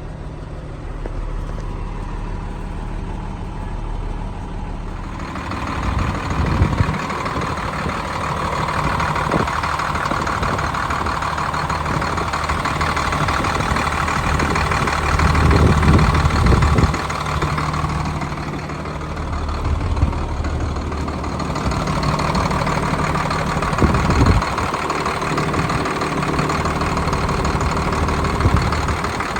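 Diesel engine of a 2010 Hino 268 box truck, an inline-six, running steadily. It grows fuller and louder about five seconds in, with a few short thumps along the way.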